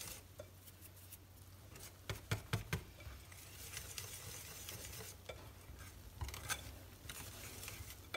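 Cake batter being stirred by hand in a bowl as flour is added a little at a time, quiet, with a few light clicks of the utensil against the bowl.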